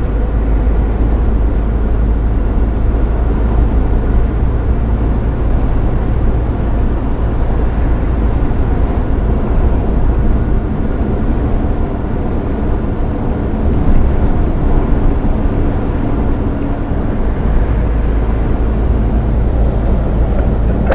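Iveco truck driving at highway speed: a steady, low engine drone mixed with road and tyre noise.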